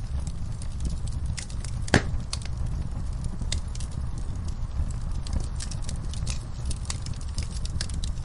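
Wood fire crackling in a fireplace: a steady low rumble with many small, sharp pops scattered through it, and one louder pop about two seconds in.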